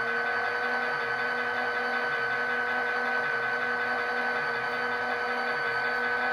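Digital diesel sound from LokSound decoders in HO Kato SD40-2 models, played through small model speakers: the EMD prime mover idling steadily after start-up, with a low rhythmic chug under steady humming tones.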